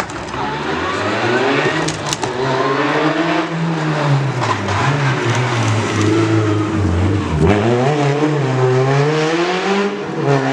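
Rally car engine revving hard under load, its pitch climbing and falling with throttle and gear changes. It drops sharply about seven seconds in, then climbs again.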